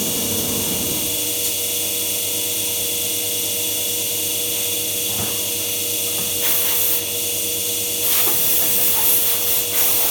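MAKA 5-axis CNC machining centre running, its spindle giving a steady whine under a constant hiss. The hiss swells about six and a half seconds in and grows louder again from about eight seconds on.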